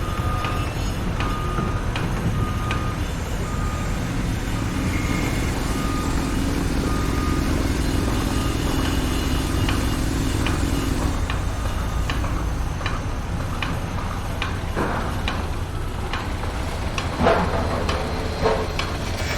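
A reversing alarm beeping about once a second over a truck's low engine rumble. The beeping stops about halfway through, and a few loud metallic knocks come near the end.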